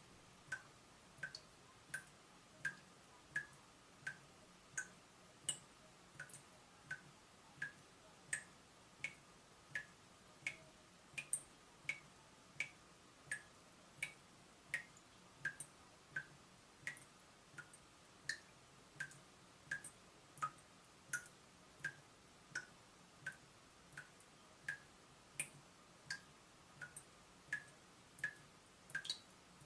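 Water dripping from a leaking tap: single drops falling in a steady rhythm, about one and a half a second, each a short, sharp plink.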